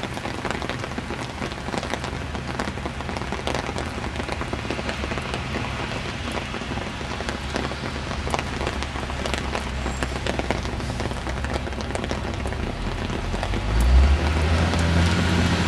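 Hail and rain falling on surfaces: a dense steady hiss scattered with many small sharp ticks of impacts. A low rumble builds near the end.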